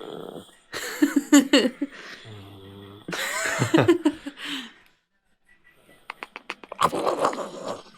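Pet dog vocalizing in a few drawn-out calls whose pitch wavers up and down, as if answering back. Near the end comes a quick run of sharp clicks.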